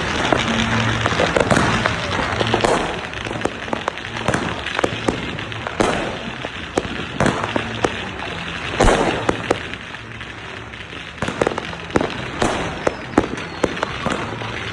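Fireworks going off in dense succession: many sharp bangs with crackling between them, and a few louder booms scattered through.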